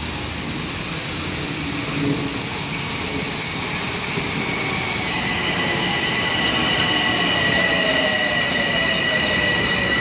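Bombardier M7A electric multiple-unit commuter train pulling into a station, its cars rumbling past steadily. From about halfway a steady high squeal sets in, and a faint whine falls in pitch as the train slows.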